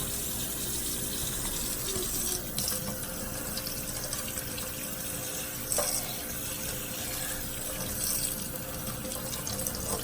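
Tap water running steadily into a sink, with a couple of light knocks.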